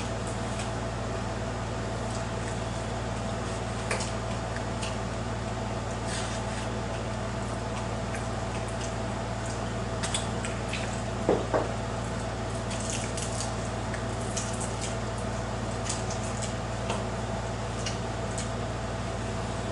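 Close-up eating sounds: wet chewing and mouth noises with scattered small clicks, over a steady background hum. Two louder knocks come about eleven seconds in.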